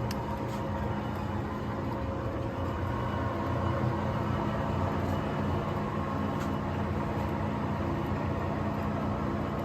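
Kingston HR3000 gap-bed engine lathe running under power, a steady mechanical hum with a few faint ticks.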